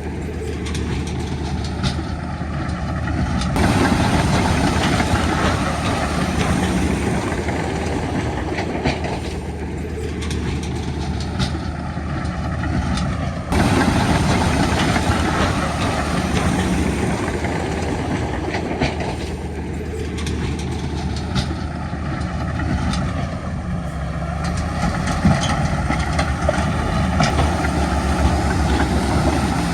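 Heavy diesel earthmoving machinery running steadily, a low engine note under a continuous metallic clatter. The sound jumps in level abruptly about 4 seconds in and again about 14 seconds in.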